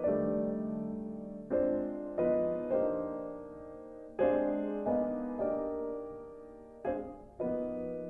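Background music: slow, gentle piano chords, each struck and left to fade before the next.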